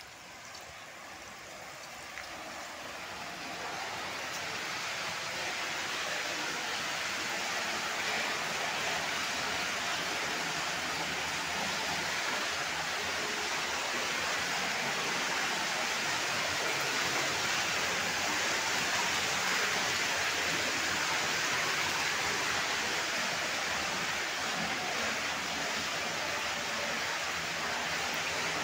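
Steady hiss of a rain shower falling on a swimming pool's water and surrounding deck, growing louder over the first few seconds and then holding even.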